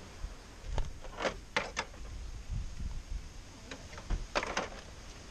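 A scattering of short, sharp clicks and knocks, several in quick succession about a second in and again near four seconds, over a low steady rumble.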